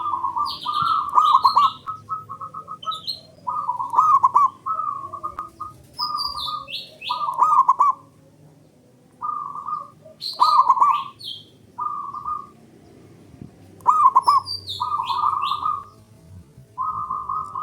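Zebra dove (perkutut) singing its staccato, trilling cooing song, one phrase every three to four seconds, with short high chirps over it.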